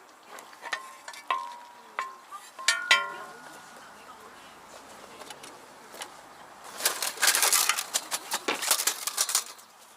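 Metal camping gear clinking: a few light knocks, each ringing briefly, in the first few seconds. Near the end comes a louder couple of seconds of rustling and clattering as things are handled.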